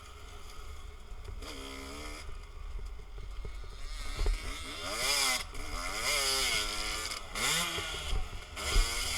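Dirt bike engine running, quieter at first, then revving hard from about four seconds in, its pitch rising and falling again and again with throttle and gear changes. A low wind rumble on the microphone sits underneath, with two sharp thumps.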